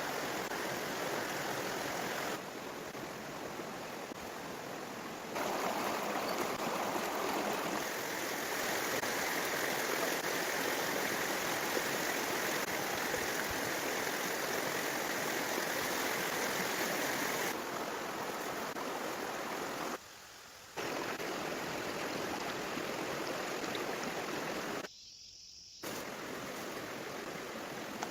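Steady rushing noise of running water, like a stream. It changes in loudness and tone abruptly several times and drops away briefly twice near the end.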